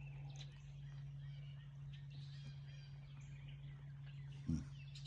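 A faint morning chorus of songbirds, many short chirps and calls overlapping, over a steady low hum. A single short low thump comes near the end.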